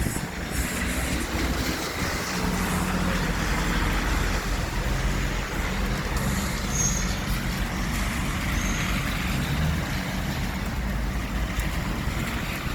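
Thunderstorm outdoors: a steady rush of rain and wind with a low rumble underneath, holding level throughout.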